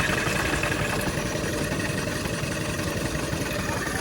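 An engine running steadily at a constant speed, with a fast, even mechanical pulse.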